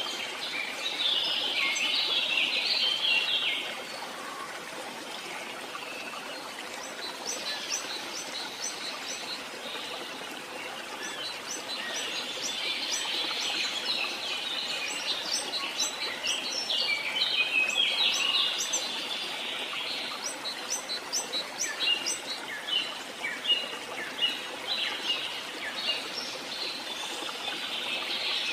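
Birds chirping and singing: many short high notes overlapping over a steady background hiss, densest in the first few seconds and again around the middle, then single sharp chirps repeating toward the end.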